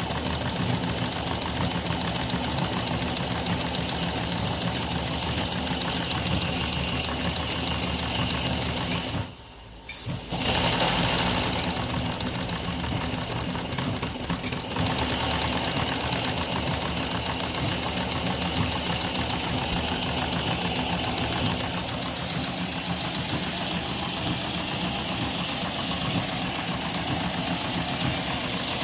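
Live-steam Shay model locomotive's three-cylinder steam engine and gearing running steadily under steam, a fast, even mechanical clatter with steam hissing, while the engine is run in. About a third of the way in the sound drops away for about a second, then returns with louder hiss for a few seconds.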